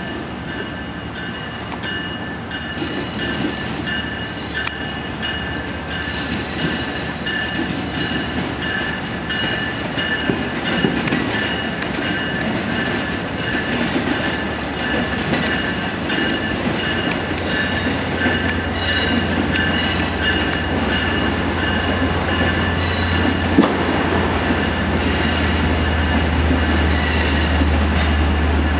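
Long Island Rail Road commuter train approaching and moving through a station, steel wheels squealing in high steady tones with clacks over rail joints, growing louder. A deep steady hum strengthens about two-thirds of the way through as the train comes close.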